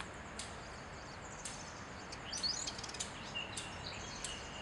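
Small birds chirping faintly now and then: short high calls, with a quick run of rising notes about halfway through, over a faint steady hiss.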